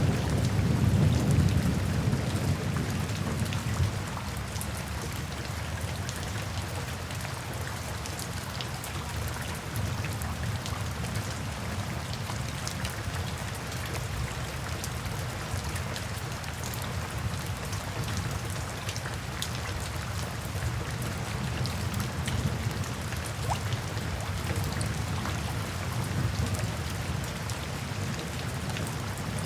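Steady rain with many separate drops ticking on a surface. A low rumble of thunder at the start dies away over the first few seconds.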